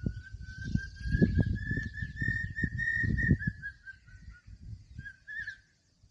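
A bird's long call: a rapid run of clear whistled notes that climbs slowly in pitch, then eases down and fades after about four and a half seconds, with a few more notes about five seconds in. Low rumbling noise sounds underneath for the first few seconds.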